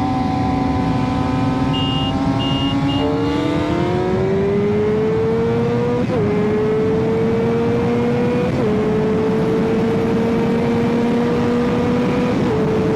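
Sport motorcycle engine held steady for a few seconds, then accelerating hard. The pitch climbs, drops suddenly at each of three upshifts, and climbs again. A few short high beeps sound about two seconds in.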